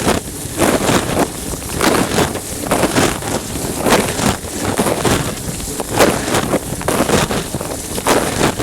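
Dishwasher wash cycle heard from inside the machine, through a plastic bag: water spray hitting and sloshing around the sealed phone, a loud rushing with frequent uneven surges.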